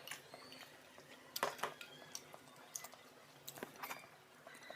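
Eating sounds: soft chewing with scattered clicks and taps of food and utensils at the plate, the loudest a cluster about one and a half seconds in and another about three and a half seconds in.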